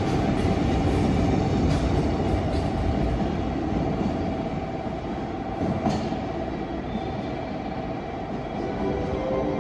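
Freight train pulling away, its wagons rolling on the rails with a steady rumble and a few light clicks. It grows slowly quieter.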